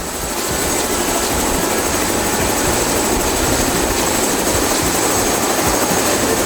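Tour helicopter running, a steady dense rotor-and-turbine noise with a thin high whine over it.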